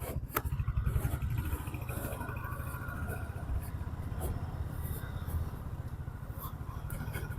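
Motorcycle engine running as the bike moves off, a steady low throb that swells in the first second, with a couple of sharp clicks near the start.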